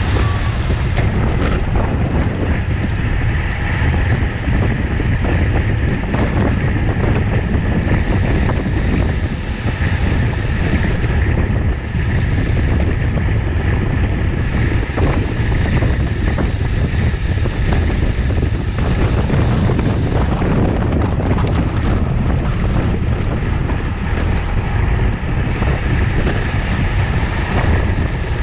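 Steady, loud wind rush on the microphone of a camera riding on a racing bicycle at speed.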